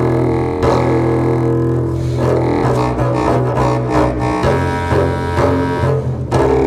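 Contemporary chamber music for clarinet and double bass: low sustained notes, the bass bowed, layered with a buzzing low reed drone, with new notes attacked every second or so.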